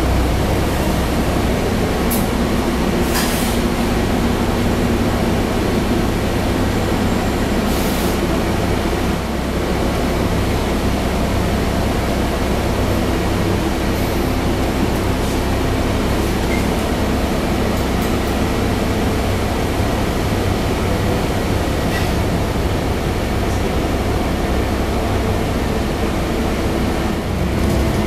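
Scania double-decker bus heard from inside the cabin while under way: steady engine hum and road noise, with a few short clicks and rattles.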